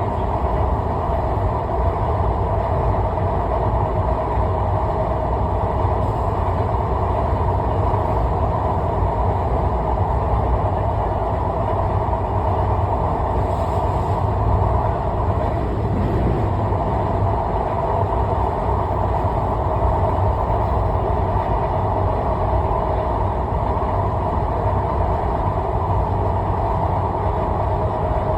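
Steady, even rumble of a vehicle travelling at speed, with a deep low rumble and a constant midrange hum.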